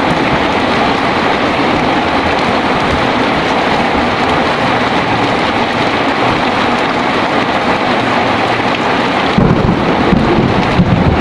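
Heavy rain pouring steadily in a dense hiss; about nine seconds in, a low rumble of thunder comes in under it.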